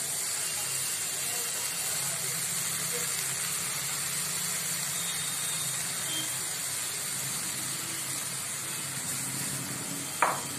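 Dried shrimp (sukat) and onion masala frying in a kadhai on a gas stove: a steady sizzling hiss, with one sharp knock near the end.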